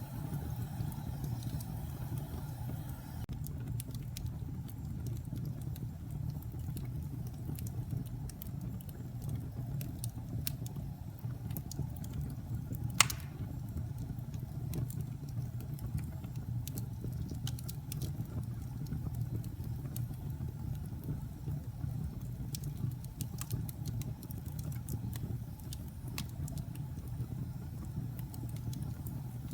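Wood fire in a fireplace crackling: a steady low rumble with scattered sharp crackles, and one loud pop about halfway through.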